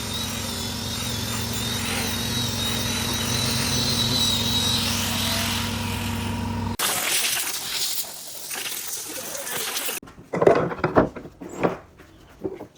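An electric power tool runs steadily with a hum and a high whine for most of the first half, then cuts off abruptly. A rushing hiss follows, and near the end a series of sharp, irregular knocks and clatter of wood being handled.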